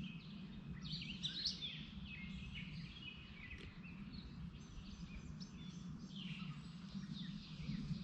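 Wild birds singing and chirping, many short calls and trills overlapping, over a low steady background rumble.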